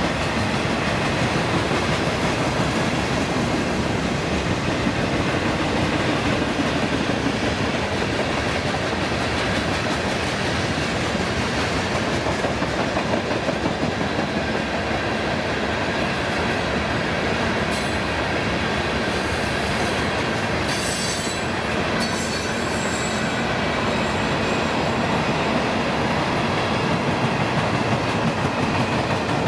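Train rolling past on the rails, its wheels running steadily over the track. Brief high-pitched wheel squeals come several times about two-thirds of the way through.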